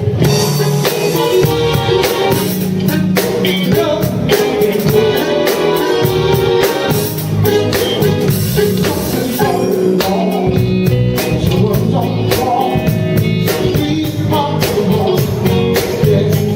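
Live soul/R&B band playing, with drum kit, bass, electric guitar and keyboards. The full band comes in right at the start after a sparse guitar figure, and the drums keep a steady beat.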